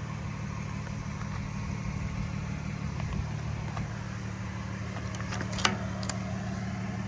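Ford F-550's 6.7 Power Stroke V8 diesel idling steadily, with a couple of faint clicks near the end.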